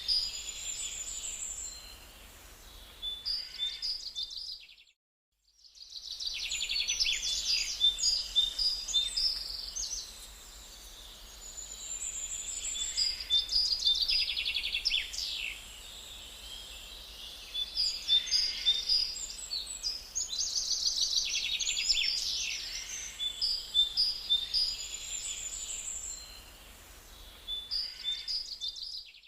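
Songbirds chirping and trilling in quick overlapping phrases, with a brief complete drop-out about five seconds in.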